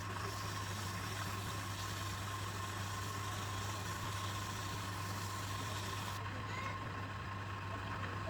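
Electric woodturning lathe running steadily, a constant low hum under a thin steady whine and an even mechanical noise. It starts abruptly right at the beginning.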